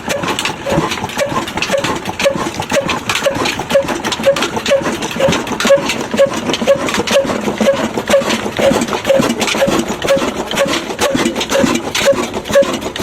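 Diesel engine idling steadily with a dense knocking run and a regular beat about twice a second.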